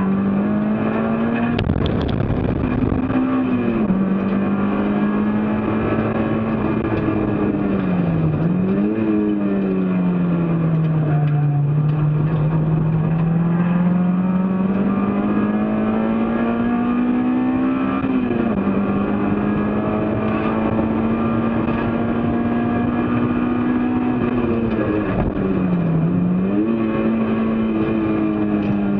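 Race car engine running hard, heard continuously with road and wind noise. Its pitch climbs slowly, drops sharply about four seconds in and again about eighteen seconds in, and dips briefly twice. A short rumble comes about two seconds in.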